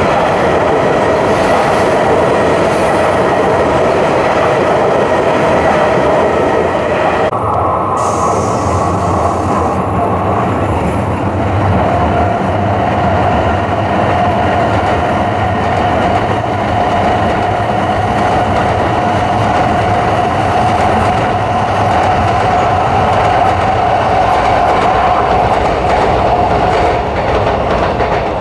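Shinkansen trains running on an elevated viaduct: the steady rushing run noise of an E5-series train, then, after an abrupt cut about seven seconds in, an E2-series train with a steady mid-pitched tone over a low rumble.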